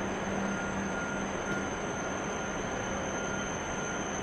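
Hokuriku Shinkansen train approaching the platform: a steady running noise with a thin high whine over it.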